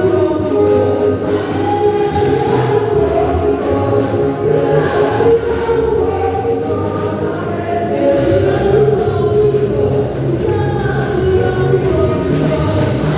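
A choir singing gospel music with instrumental backing and a steady bass line.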